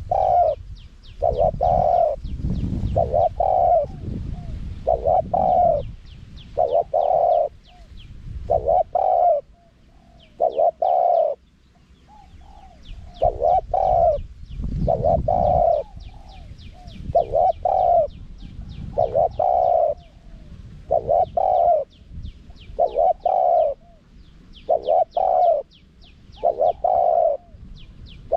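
Spotted dove cooing: a long run of short, deep coo phrases, repeating about every one and a half to two seconds, with faint high chirping behind.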